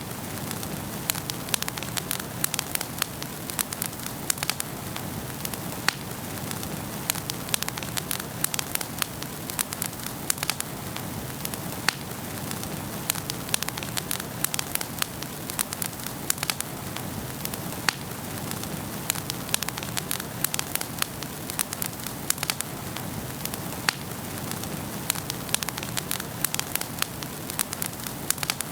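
Wood fire burning in a fireplace, crackling steadily with frequent, irregular sharp pops over a soft, even hiss of the flames.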